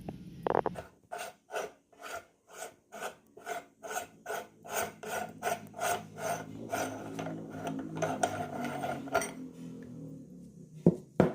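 Meat grinder working through a fruit pudding: a rhythmic rasping scrape about three times a second over a steady low hum. The scraping stops near the end, followed by two sharp knocks.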